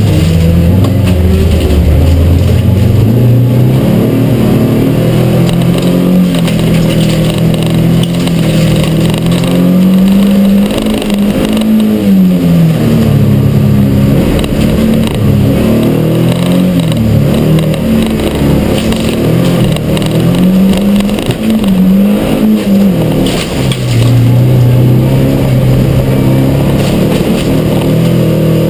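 Stock car's engine heard from inside the cabin while racing, its pitch repeatedly rising and falling as the throttle is opened and lifted.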